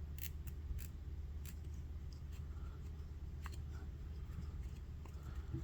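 Faint scattered clicks and ticks of tying thread being wrapped and pulled tight over a foam body on a hook in a fly-tying vise, over a steady low hum.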